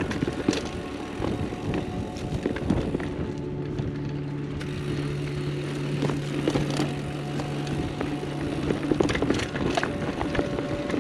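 Mountain bike riding downhill over rough dirt singletrack: tyres rolling and the frame and parts rattling and clicking over bumps, with a steady buzzing tone through the middle of the stretch.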